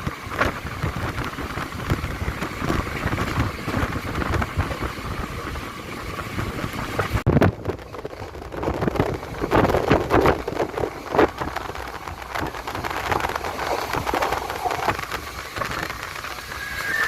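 Running noise of a moving passenger train: a steady rush and rumble with rain and wind noise, broken by many short knocks, changing abruptly about seven seconds in.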